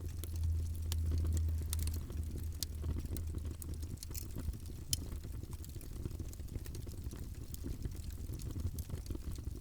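Wood fire in a fireplace crackling: irregular sharp pops over a low rumble of the burning fire. The rumble is stronger for the first two seconds or so, then settles.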